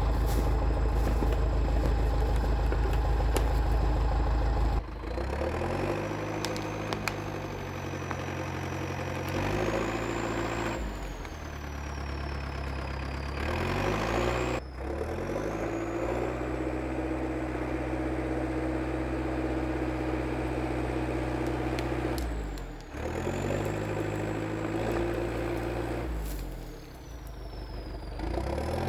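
International Harvester TD8E crawler bulldozer's diesel engine running. Its speed rises and falls repeatedly as it works, with a high whine that climbs and drops along with it. The sound changes abruptly about five, fifteen and twenty-three seconds in.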